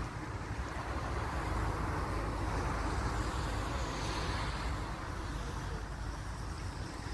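Steady outdoor background noise: a low rumble under a broad hiss, swelling a little around the middle, with no distinct events.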